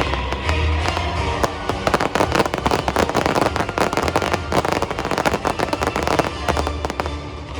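Aerial fireworks crackling in a dense, rapid stream of small pops over music, the crackle thinning out near the end.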